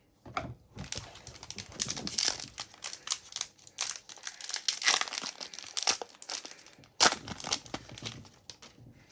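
Wrapper of an Upper Deck hockey card pack being torn open and crinkled, with a sharp, loud crackle about seven seconds in.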